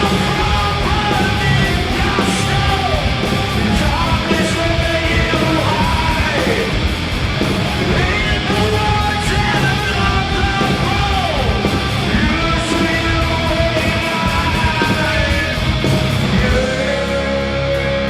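Live heavy metal band playing loud and full, with a yelled, sung vocal over the instruments. Near the end the vocal stops and the band holds a steady chord.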